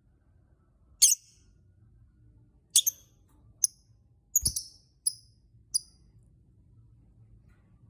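Lovebird giving about six short, shrill chirps over a few seconds, then falling silent near the end. A low knock sounds together with one chirp midway.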